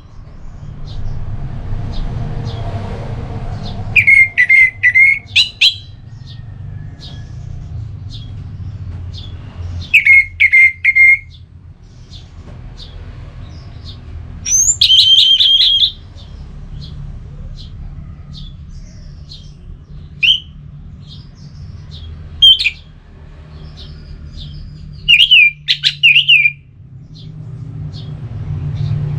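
Orange-headed thrush singing loud, clear whistled phrases every few seconds, with quieter short chirps in between. A steady low hum runs underneath.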